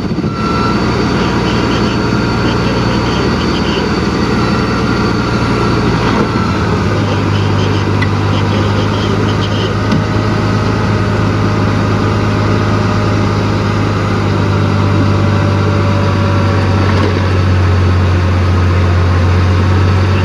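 Heavy earthmoving machinery's diesel engine running steadily. Its low note grows stronger about six seconds in and louder again near the end.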